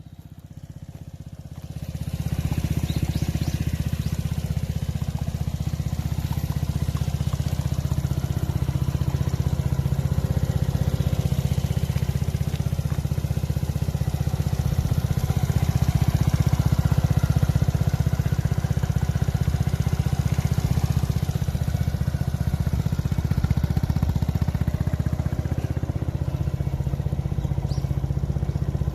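Suzuki GSR125 motorcycle running steadily through an aftermarket BEAMS muffler. The engine note is fainter at first and steady once it grows louder about two seconds in.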